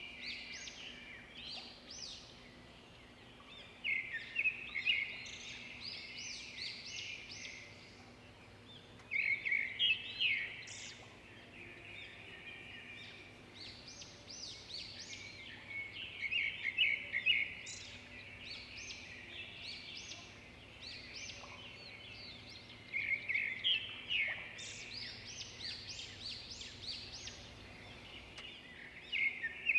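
Songbirds chirping and singing: loud, rapid song phrases come back every five to seven seconds over quieter twittering, with a faint steady low hum of background noise underneath.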